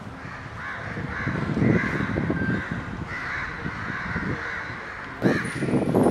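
Birds calling over and over with harsh, cawing calls, over a low rumbling background that gets suddenly louder about five seconds in.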